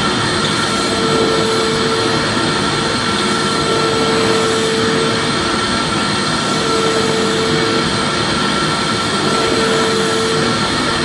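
Vacuum cleaner motor running steadily, a continuous loud rushing noise with a constant high whine. A lower hum fades in and out about every two seconds.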